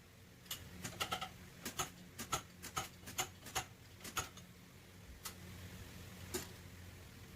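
Light, irregular taps on sheet metal, about two to three a second with a short ring on some, typical of hammer work on a car body panel; they stop about five seconds in, leaving a steady low hum.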